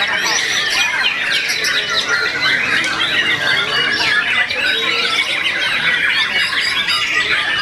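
Many caged songbirds singing at once in competition: a dense, loud, overlapping chorus of rapid chirps, whistles and trills.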